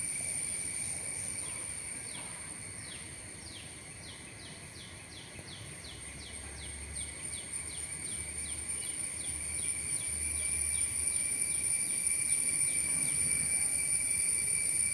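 Insects trilling steadily at a high pitch, while a bird repeats short descending whistled notes, about three a second, for most of the stretch.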